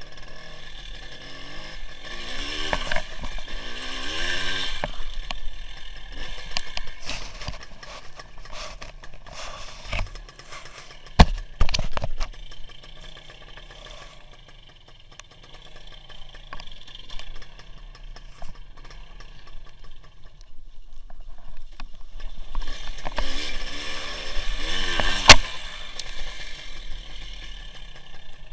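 WSK 175 two-stroke single-cylinder motorcycle engine heard from onboard while riding, its pitch rising twice as it accelerates. There are a few sharp knocks in the middle and one near the end.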